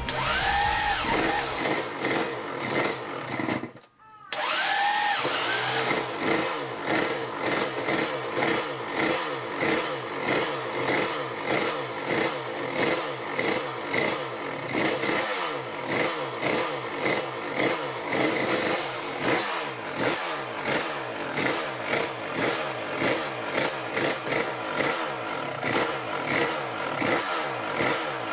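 Aprilia RS125's 125 cc two-stroke single-cylinder engine, fitted with hybrid ceramic ball bearings, revving in quick repeated throttle blips of about one and a half a second. The sound breaks off briefly about four seconds in.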